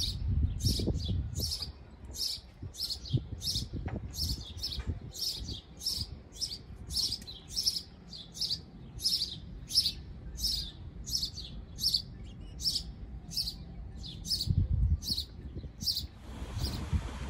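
A small bird repeating one short, high, descending chirp over and over at an even pace, about three calls every two seconds, over a low rumble; the chirping stops abruptly shortly before the end.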